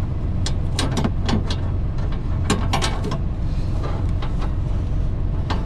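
A steady low engine rumble like an idling truck, with irregular sharp clicks and knocks from work going on nearby.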